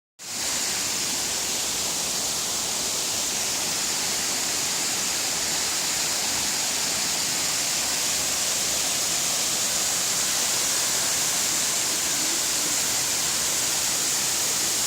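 Tulip waterfall's big drop of water rushing: a steady, unchanging roar, strongest in its high hiss.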